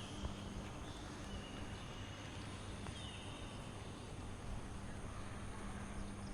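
Outdoor ambience on a walk: a steady background hum and noise, with a few faint, short, high chirps.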